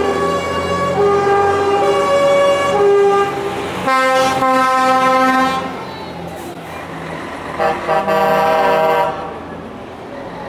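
Truck air horns blowing in turn, several long steady blasts at different pitches, one of them deeper, over the rumble of lorry engines.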